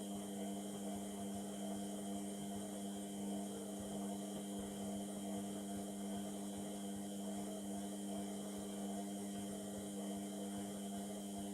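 Indesit MTWC71252WUK washing machine running mid-way through a Cotton 30 wash, a steady hum with a continuous whirring haze.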